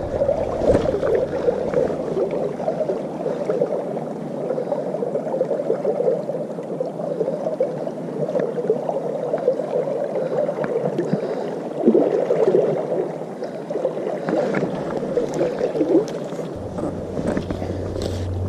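River water running and gurgling over stones, a steady rushing with small rises and falls. A low rumble comes in near the end.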